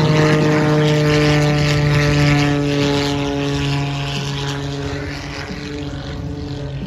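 Propeller airplane flying past, its engine and propeller drone sliding slowly down in pitch and fading as it moves away.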